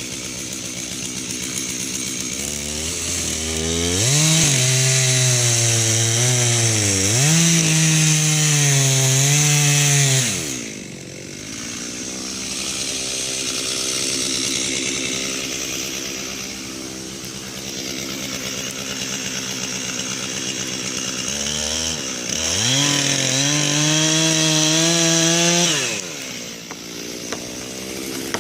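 Stihl two-stroke chainsaw with a 20-inch bar cutting into a dead pine trunk. It runs at low revs, goes to full throttle twice for several seconds each time, with the pitch sagging and recovering as the chain bites into the wood, and drops back to lower revs in between.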